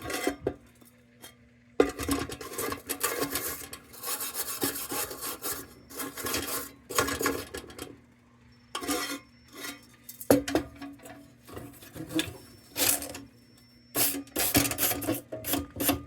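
Repeated hand scraping strokes on an old painted metal lantern, knocking crusted grime and junk off it ahead of paint removal, in uneven runs with short pauses.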